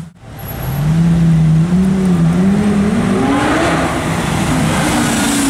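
Lamborghini Gallardo Spyder's V10 engine accelerating as the car pulls away. Its pitch climbs steadily for a couple of seconds, then levels off.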